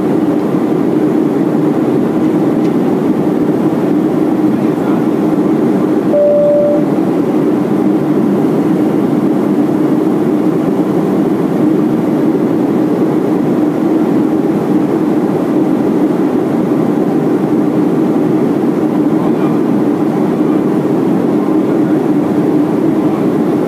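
Steady cabin noise of a Boeing 737-400 in flight on final approach, heard from inside the passenger cabin: engine and airflow noise. A brief single tone sounds about six seconds in.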